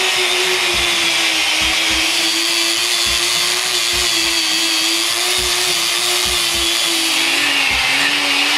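Angle grinder fitted with a wire brush, running steadily while scouring dried varnish drips off a concrete floor; its pitch dips slightly near the end.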